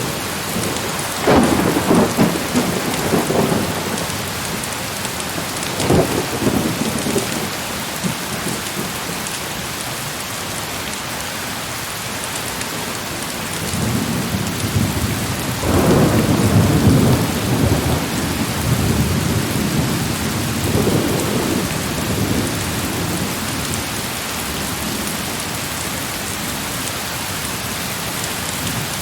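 Steady heavy rain with thunder rolling through it: a rumble with sharp cracks just after the start, a single crack a few seconds later, and a longer rolling rumble around the middle.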